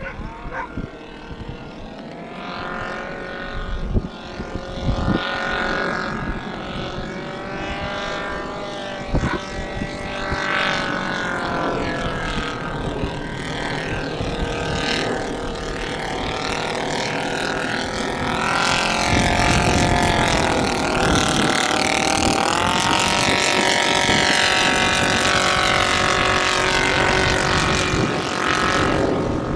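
Radio-controlled scale model aircraft flying, its engine and propeller note rising and falling in pitch as it manoeuvres. The sound grows louder about two-thirds of the way through.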